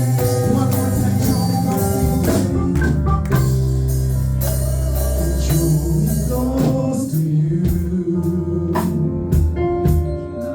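Live gospel worship music: organ and band playing sustained chords with a strong bass line and regular percussion hits, with singing.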